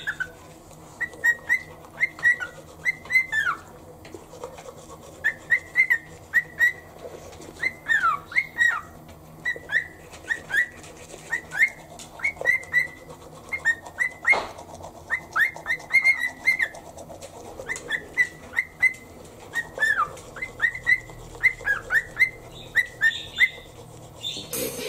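Cockatiel whistling a song in phrases of short, clear whistled notes, many sliding down in pitch, with brief pauses between phrases. A single sharp click about halfway through.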